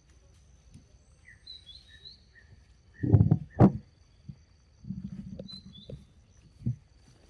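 Small birds chirping against a steady faint high-pitched hum, broken about three seconds in by two loud close thumps, followed by a second of low rustling and a softer thump near the end.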